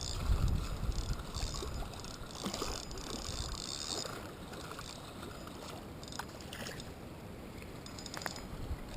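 Wind buffeting the microphone in gusts over the first few seconds, easing to a fainter steady outdoor rush with a few small clicks.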